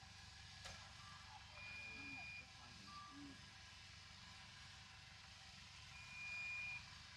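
Faint low rumble of heavy construction machinery running at a distance, with two long, high, steady beeps about four seconds apart.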